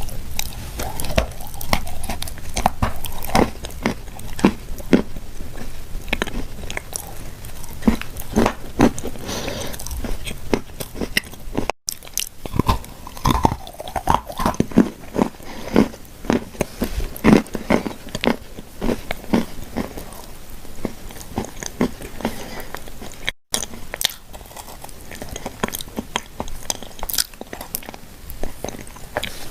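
Close-up biting, crunching and chewing of edible clay shaped as shortbread cookies: dense, irregular crunches and crackles, with the sound dropping out for a split second twice.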